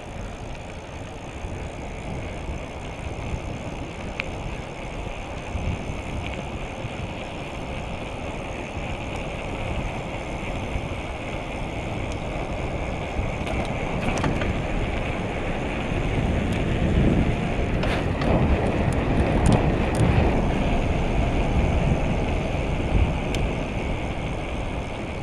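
Wind rumbling on the microphone with tyre and road noise from a moving bicycle, growing louder about two-thirds of the way through, with a few light clicks.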